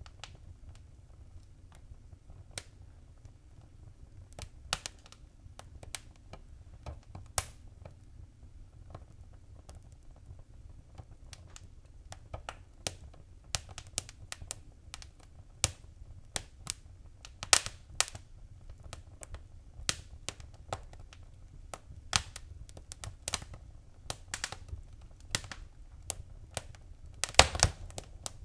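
Fireplace fire crackling: irregular sharp pops and snaps over a low steady rumble of the flames, sparse at first and coming thicker from about halfway, with the loudest cluster near the end.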